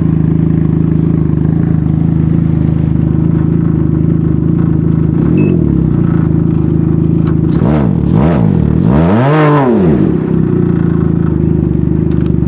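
Can-Am Ryker Rally's three-cylinder engine through an RLS Twin Kaos straight-through exhaust with its baffle fitted, idling and then blipped: a short rev about five seconds in, two more quick revs, and a longer, higher rev just before the end, each falling back to a steady idle. This is a maximum-loudness test with the baffle in, reading about 132 dB.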